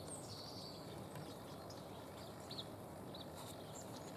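Small songbirds calling: a short stretch of high, thin twittering near the start, then a few separate short chirps over a faint outdoor background hiss.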